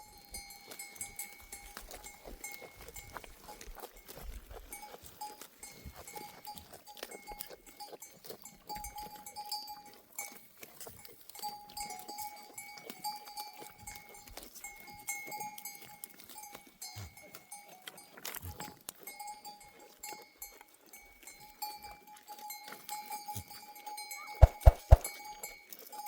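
Bells on a grazing flock of sheep ringing and clanking on and off, with small clicks throughout. A few loud, sharp knocks near the end.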